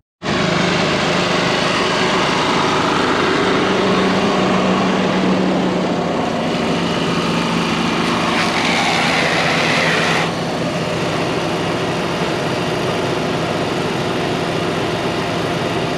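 Fendt tractor's engine running steadily under load, a constant hum with a broad mechanical noise on top. It starts suddenly and eases slightly about ten seconds in.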